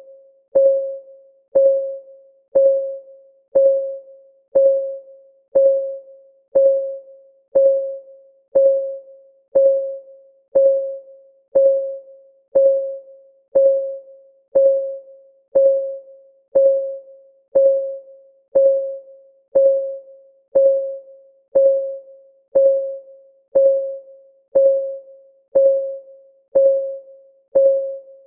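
Clock ticking sound effect of a countdown timer: one short tick a second, each with a brief ringing pitch, in a steady, unchanging rhythm.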